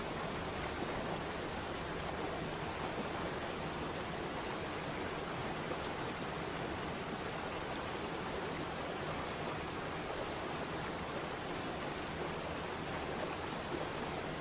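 Waterfall: a steady, even rush of falling water, with no break or change.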